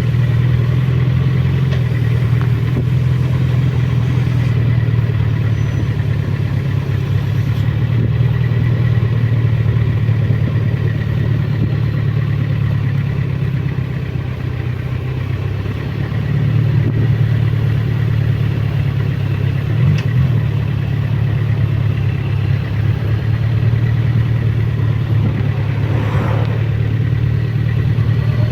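Suzuki Bandit motorcycle's inline-four engine running steadily, heard from on the bike. Its note eases off briefly about halfway through, then picks up again.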